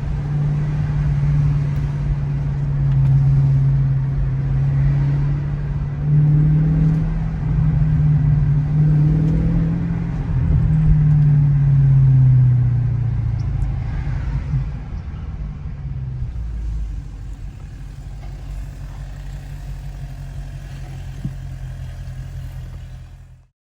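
Dodge Scat Pack Widebody's 6.4-litre HEMI V8 on its stock exhaust, heard from inside the car while driving. The engine note rises and falls as the car pulls away and shifts, settles to a quieter steady drone about two-thirds of the way through, then cuts off suddenly near the end.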